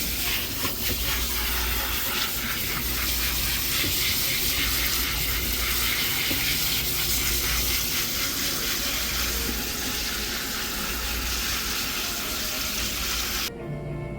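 Water running steadily while a dog is rinsed during its bath. It cuts off abruptly near the end as music begins.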